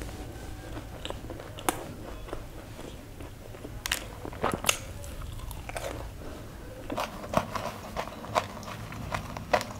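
Close-miked chewing and crunching of a crisp fried pani puri shell: scattered sharp crunches, coming thicker and faster in the last few seconds.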